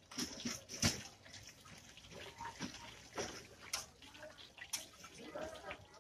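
Close-up wet chewing and lip-smacking of a person eating, with scattered sharp clicks.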